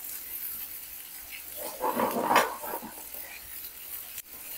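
Chopped onions, green chillies and crushed garlic sizzling in hot oil in a nonstick pan as a wooden spatula stirs them, with one louder stirring scrape a little past the middle.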